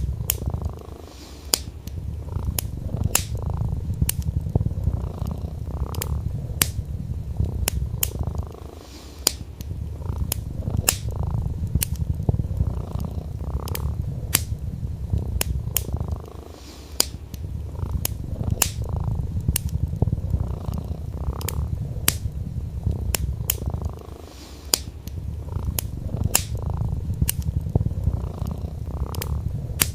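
A cat purring steadily in a low rumble that eases off briefly about every seven or eight seconds, over a wood fire crackling with sharp pops about once a second.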